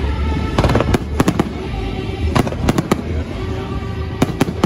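Aerial fireworks bursting and crackling in clusters of sharp cracks about every second, over show music.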